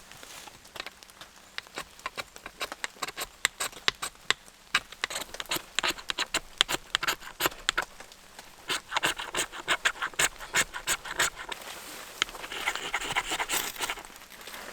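Magnesium fire-starter block being scraped in quick, irregular sharp strokes, shaving magnesium for tinder. The strokes come fastest and loudest in the middle. Near the end they give way to a denser, continuous rasp.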